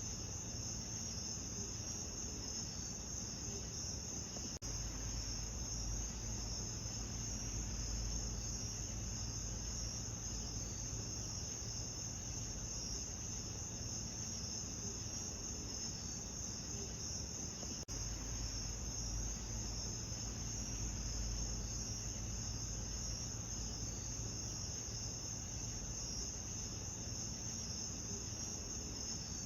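Crickets chirping in a dense, steady chorus over a low rumble, broken by two very brief dropouts about 5 and 18 seconds in.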